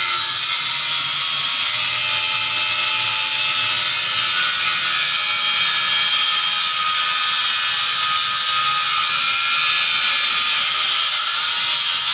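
A motor-driven machine running steadily, a loud, even, high-pitched whirring hiss that does not change.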